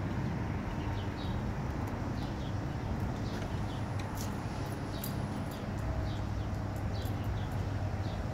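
Outdoor ambience: a steady low rumble with short, high chirps from small birds about once a second, and a few faint light clicks.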